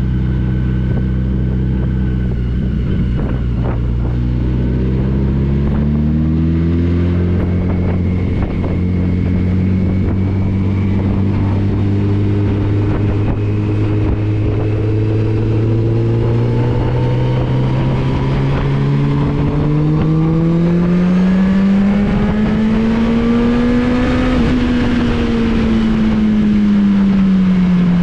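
Touring motorcycle engine running under way over a rush of wind noise. Its note climbs about six seconds in, rises steadily again through the second half as it speeds up, peaks a few seconds before the end, then drops as the throttle eases.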